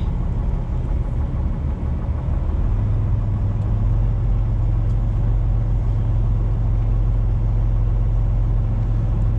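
Diesel engine of a 2018 Freightliner semi truck running steadily. About three seconds in, its low hum grows stronger and steadier.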